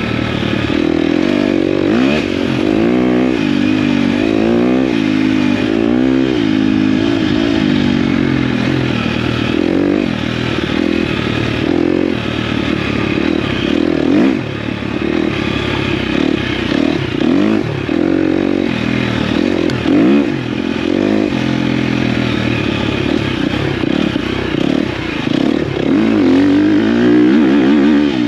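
KTM dirt bike engine revving up and down as it is ridden off-road, the pitch rising and falling every second or two with the throttle.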